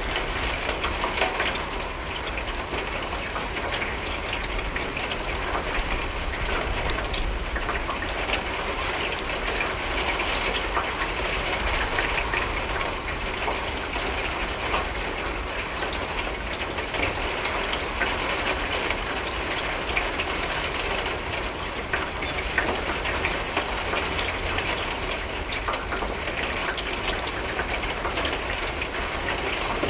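Steady rain on a window, a dense even patter of drops with many small ticks, over a low rumble.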